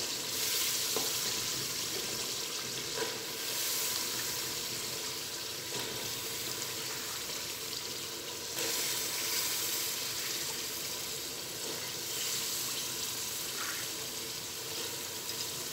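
Soaked black chickpeas and tomato-onion masala sizzling steadily in hot oil in a pressure cooker, with a few light clicks as they are stirred with a wooden spoon.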